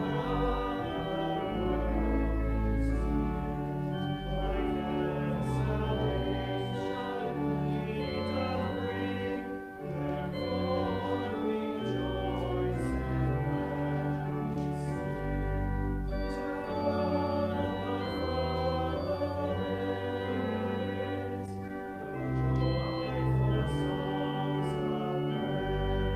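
Church organ playing a hymn in sustained, held chords over long bass notes.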